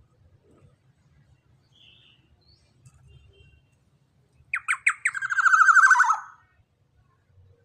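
Young black-naped oriole calling: about four and a half seconds in, three or four short sharp notes, then one harsh call of just over a second that falls slightly in pitch.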